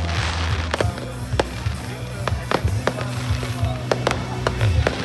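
Fireworks going off: sharp bangs and crackles at irregular intervals throughout, with a hissing burst near the start. Music plays underneath.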